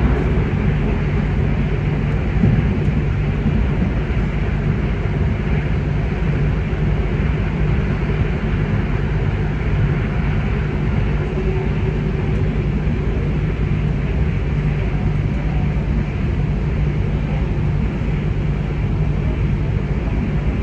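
Passenger train running at speed, heard from inside the carriage: a steady low rumble and hum of wheels on track and running gear, with a single brief knock about two and a half seconds in.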